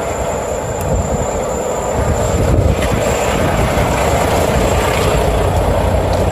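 Semi-truck's diesel engine idling, a steady loud rumble with no change in pace.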